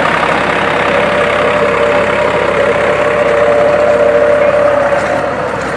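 Tractor engine running steadily, with a steady mid-pitched whine joining about a second in.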